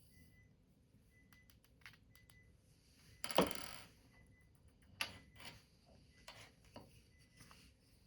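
Light clicks and taps of small objects being handled, with one louder scraping rattle that falls in pitch about three and a half seconds in.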